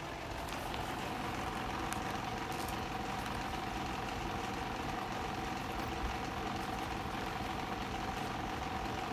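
Steady mechanical hum, engine-like, with a steady mid-pitched whine over it that sets in just after the start.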